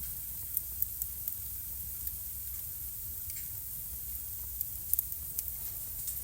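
Wood fire crackling in a fireplace: a steady hiss with scattered sharp pops, including a quick pair about five seconds in.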